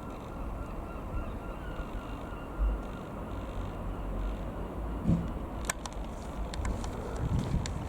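Steady drone of a light aircraft's piston engine, the Eurofox's Rotax 912, heard amid noise, with a few short low thumps on the microphone and some light clicks in the second half.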